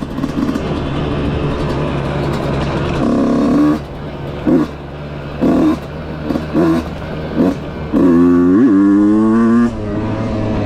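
Husqvarna dirt bike engine running under way, with several short throttle blips. Near the end it revs up for a longer pull, its pitch dropping sharply once midway as a gear is changed, before the throttle eases off.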